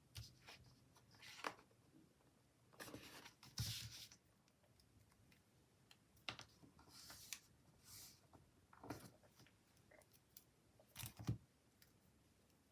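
Faint, scattered rustles and light taps of paper sticker sheets being handled, with stickers peeled off and pressed onto a planner page.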